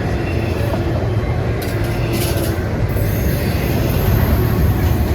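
CSX freight train rolling past close by: a steady, loud rumble of cars on the rails. A brief high-pitched hiss cuts in about one and a half seconds in and stops near three seconds.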